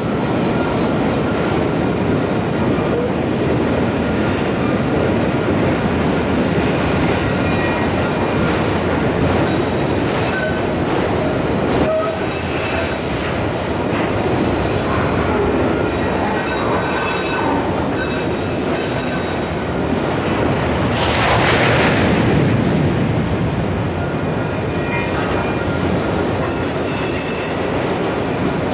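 Freight train rolling past close by: a steady rumble of steel wheels on rail, with short high-pitched wheel squeals coming and going. It swells louder for a moment about three-quarters of the way through.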